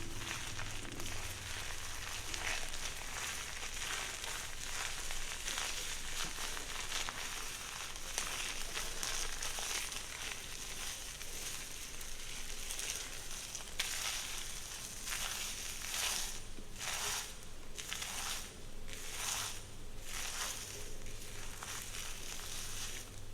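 Close-up crackling, rustling strokes worked through a person's hair. About halfway through they settle into distinct strokes roughly once a second.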